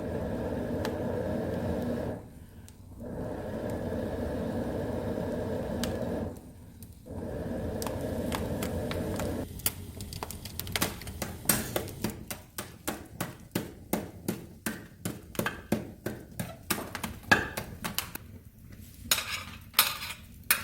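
Kitchen work sounds: a steady running sound that stops briefly twice, then a quick series of sharp knocks, about two or three a second.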